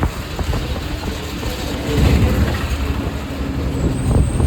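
Bus engine running with heavy low road rumble and a steady hum.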